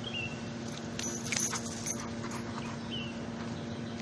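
Pit bull whimpering: two short high whines, one at the start and one about three seconds in, with some clattering and rustling between them over a steady low hum.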